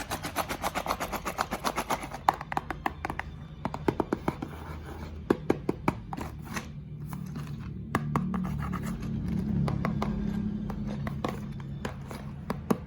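Marbles clicking and rattling through a plastic building-block marble run. Fast, fairly regular clicks at first, then scattered clicks, and from about eight seconds a steady low rumble of marbles rolling along the track.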